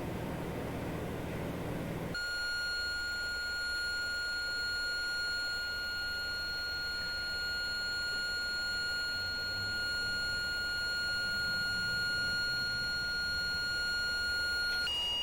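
A steady electronic alarm tone cuts in about two seconds in, replacing a broad rushing noise, and holds one unchanging high pitch for over ten seconds; near the end it breaks into an on-off pattern alternating with a lower tone.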